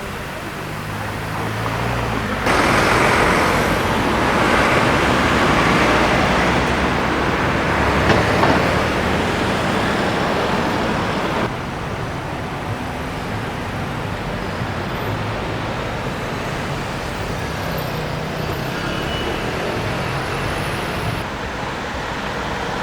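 Street traffic noise of cars passing and engines running, a steady wash of road noise that jumps abruptly in level twice, loudest in the first third.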